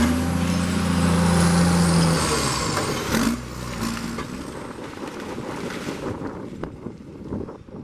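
Heavy diesel logging machine engine running hard with a deep hum, with a few sharp metal knocks. After about three seconds it drops to a quieter, rougher idle.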